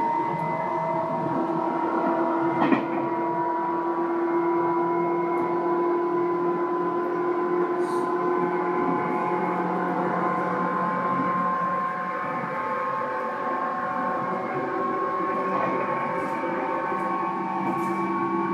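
Tobu 9000 series commuter train running, heard from inside the car: the traction equipment gives a steady whine of several tones that slowly rise in pitch over the wheel-and-rail rumble. A single sharp knock comes about three seconds in.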